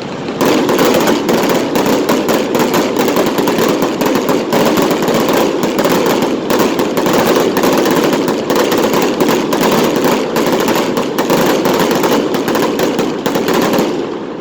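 Fireworks going off in a dense, rapid barrage of bangs and crackles, starting about half a second in and stopping just before the end.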